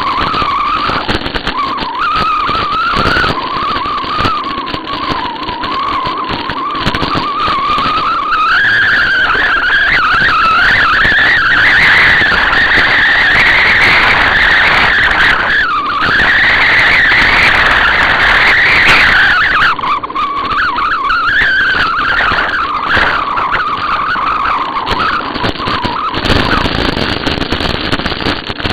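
Noise of riding a bicycle: rushing wind and rolling noise with a high, wavering whistle that climbs in pitch through the middle, dips sharply once, and settles lower near the end.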